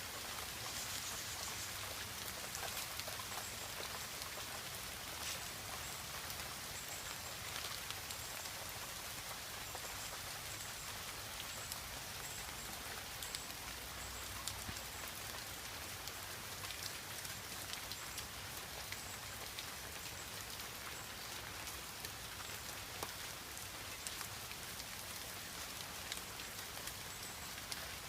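Steady rain falling on garden foliage, with scattered individual drops ticking close by.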